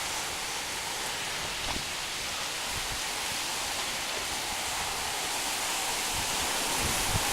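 Steady rain falling in a thunderstorm, an even hiss that grows slightly louder near the end, with a few drops tapping close by.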